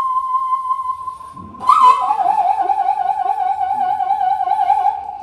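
Daegeum, the Korean large bamboo transverse flute, playing a slow improvisation. It holds one long steady note, then with a breathy attack a little before halfway moves down to a lower note held with a wide, even vibrato.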